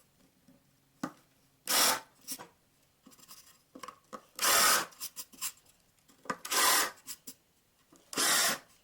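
A countersink bit cutting into a wooden board in four short scraping bursts, about every two seconds, with small clicks between. The countersink is dull enough that its owner wants to sharpen it.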